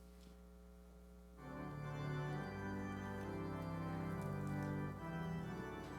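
Church organ holding a soft chord, then about a second and a half in growing louder into full sustained chords that change as it plays a hymn tune.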